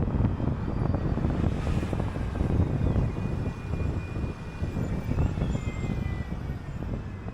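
City bus running along the road: a steady low engine and road rumble. A faint high whine sounds in the middle and slides slightly downward.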